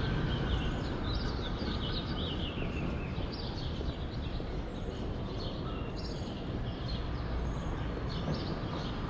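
Small birds chirping over and over in quick, falling notes, over a steady low rumble of background noise.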